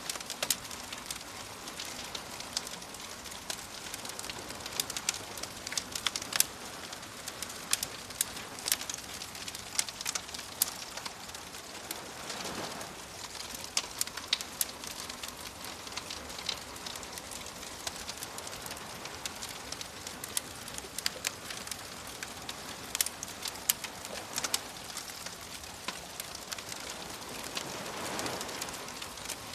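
Wood fire crackling, with frequent sharp pops over a steady hiss, while waves wash in twice, swelling and fading about twelve seconds in and again near the end.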